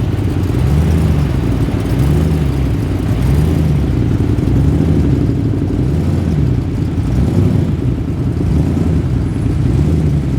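A muscle car's engine running at low revs with a low rumble. Its pitch rises and falls about every second and a half.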